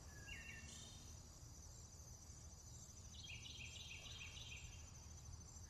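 Faint nature-sound ambience: a bird gives quick runs of short chirps, once at the start and again about three seconds in, over a steady high insect-like tone and low background noise.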